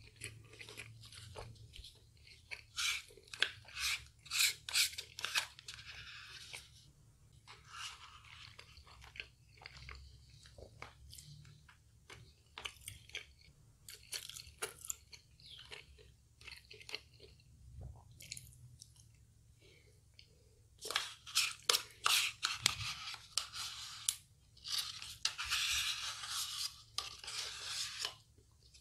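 Close-miked eating sounds: chewing with bursts of crunching from crispy KFC fried food, loudest twice, with quieter chewing of spoonfuls of mashed potato between.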